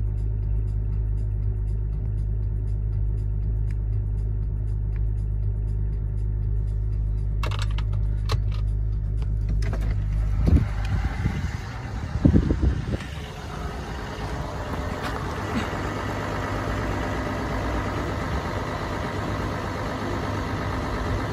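Hyundai ix55's V6 diesel idling cold just after a start at −7 °C. For the first ten seconds it is heard from inside the cabin as a steady low hum. A few clicks and then several loud knocks come between about eight and thirteen seconds in, after which the idle is heard from outside the car as a broader, noisier steady sound.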